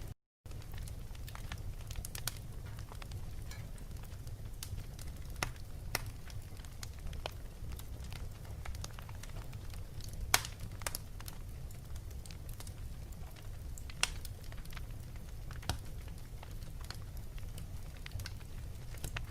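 Fireplace crackling: a steady low rumble of the fire with irregular sharp pops and crackles, the loudest pop about ten seconds in. The sound cuts out completely for a split second just after the start.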